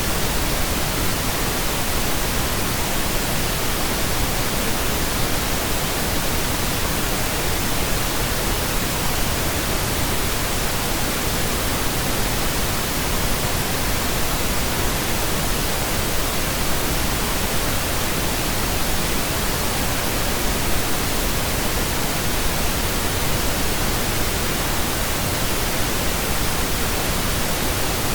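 Steady pink noise: an even, unchanging hiss spread across all pitches, with no tones or beats in it.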